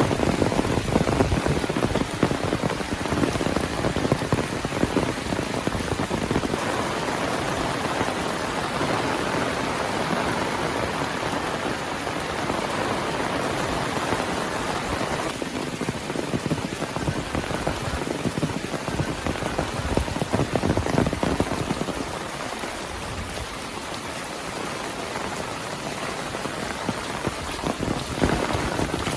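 Heavy rain falling steadily, with close drops pattering on nearby surfaces. It swells a little now and then and eases slightly towards the end.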